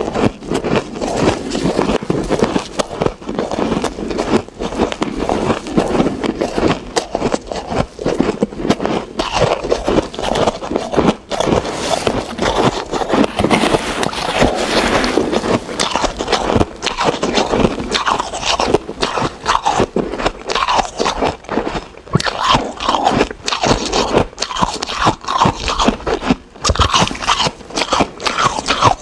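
Close-miked crunching of hard ice being bitten and chewed, a dense, continuous run of crisp crackles and crunches.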